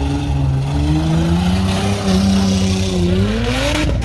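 Car engine revving hard under load, its pitch rising and falling as the throttle comes on and off, climbing toward the end with a brief rush of noise just before it stops.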